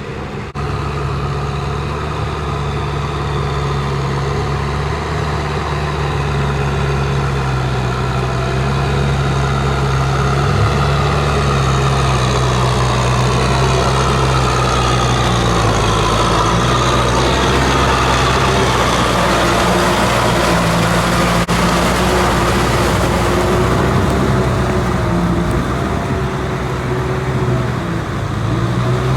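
Kubota M6040SU tractor's diesel engine running steadily as it works a field, its note dipping slightly now and then.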